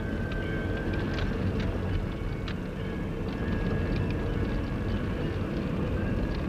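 Vehicle cabin noise while driving: a steady low engine and road rumble, with scattered light clicks and a faint thin whine.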